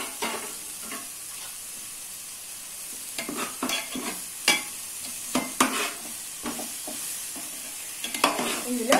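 Tomato-onion masala sizzling in an aluminium pot, with a metal slotted ladle scraping and stirring through it in a run of strokes from about a third of the way in.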